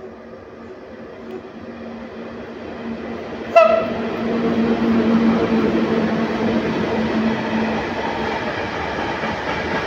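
ET41 twin-section electric locomotive hauling a freight train: its steady electric hum grows louder as it approaches. A short horn blast sounds about three and a half seconds in as it reaches the camera, then loaded open wagons rumble past on the rails.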